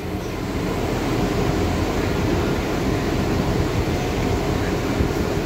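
Trenitalia ETR343 hybrid multiple unit standing at the platform, its running machinery giving a steady hum with a few held tones, rising over about the first second and then even.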